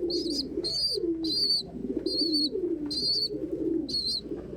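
Domestic pigeons cooing in low, rising and falling calls, over a young pigeon's high, thin begging peeps repeated about twice a second.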